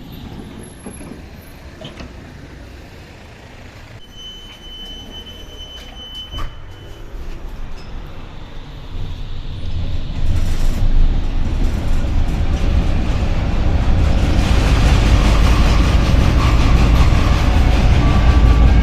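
Old tram pulling away and picking up speed on rough track. It is quiet at first, with a steady high tone for a few seconds; from about nine seconds in the rumble of wheels and motor rises steadily until it runs loud.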